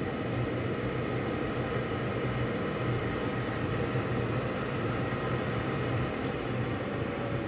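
Gas furnace running on low fire: the inducer draft fan and burners make a steady hum and rush, with the inducer not ramped up to high speed.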